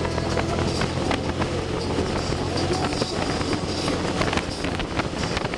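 Can-Am Spyder three-wheeled motorcycle running at road speed, a steady engine sound under wind noise on the microphone.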